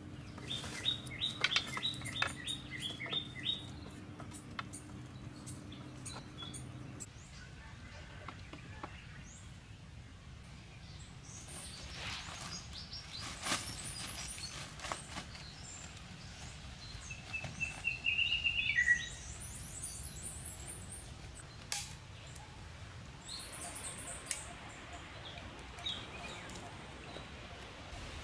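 Wild forest birds chirping in short repeated calls, with a louder trill about two-thirds of the way through. Faint scattered rustles and clicks of handling are heard among them.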